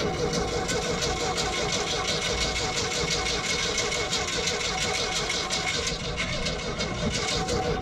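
70-pound-thrust electric trolling motor running steadily, a steady hum over a rough rushing noise.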